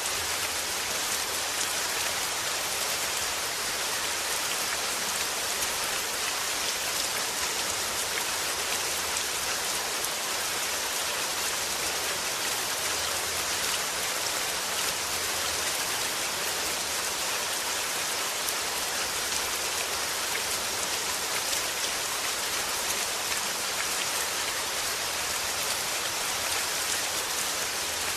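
Steady rain falling, a constant even patter of drops on a surface.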